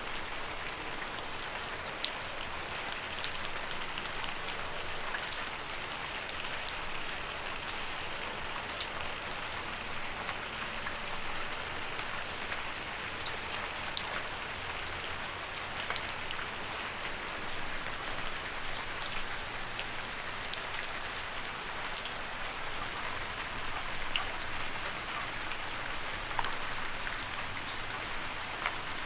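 Steady rain falling, an even hiss with many sharp individual drops pattering on a surface.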